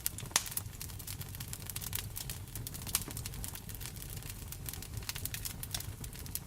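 Wood fire crackling in a fireplace, with frequent irregular sharp pops, a few louder than the rest, over a steady hiss of rain and a low rumble.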